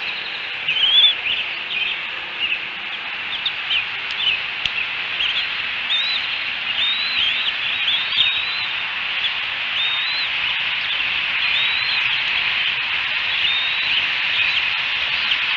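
Birds chirping: many short, high, arching chirps come and go over a steady high hiss of outdoor ambience.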